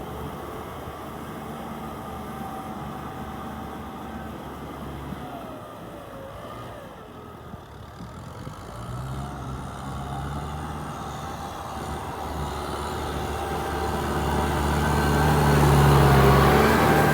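Tractor diesel engine running steadily while plowing. It dips slightly midway, then grows louder near the end.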